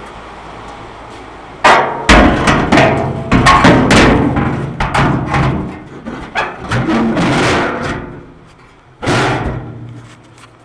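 A homemade spare-tire tub being knocked and forced down into a hole cut in a pickup bed floor: a rapid run of loud bangs and knocks starting about two seconds in and lasting several seconds, with one more bang about a second later.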